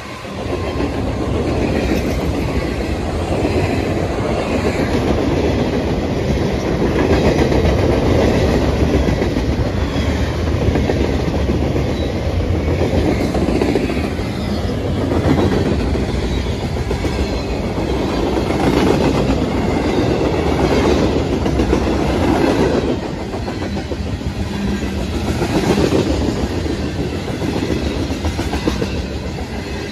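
A CSX freight train of gondolas and tank cars rolling past close by: a continuous rumble of steel wheels on the rails with repeated clicking over the rail joints, rising and falling in level as the cars go by.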